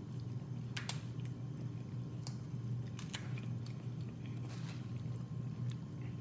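Close-up eating sounds: chewing and biting into seafood-boil food, with scattered sharp clicks and short crackles, over a steady low hum.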